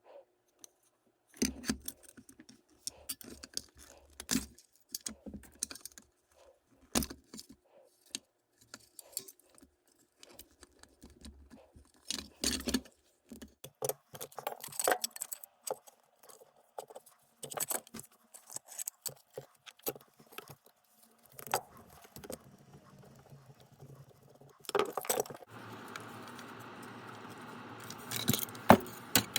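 Irregular clicking, tapping and rattling of small plastic housing parts and tools as a soap dispenser is pried open and taken apart by hand. A steady hiss comes in about 25 seconds in under the clicks.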